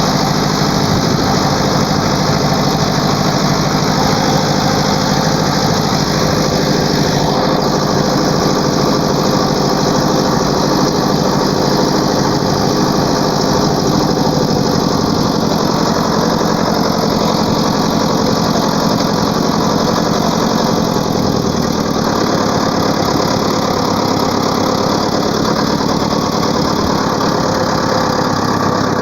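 Ford 5000 tractor engine running steadily, its low note shifting a little about three quarters of the way through.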